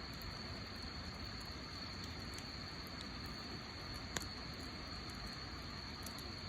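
Wood campfire burning with a steady hiss and scattered faint crackles, with one sharper pop about four seconds in.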